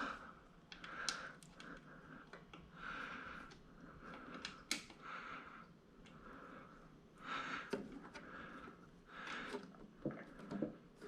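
Faint small clicks and taps of screws and metal parts being handled on a vinyl plotter stand, with breathing at intervals.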